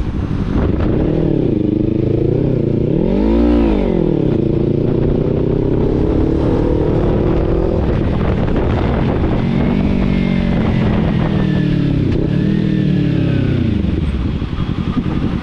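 Kawasaki Z300 parallel-twin engine running under way, with a quick rev up and back down about three and a half seconds in, then pulling with slowly rising revs before dropping to lower revs that rise and dip.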